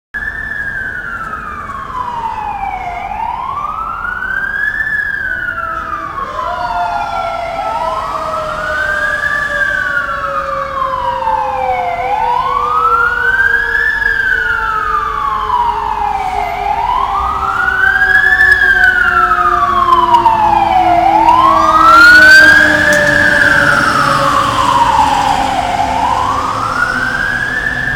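Fire engine siren wailing, rising and falling about every four and a half seconds, with a second siren tone slowly sinking in pitch underneath. It grows louder as the engine approaches, loudest about 22 seconds in.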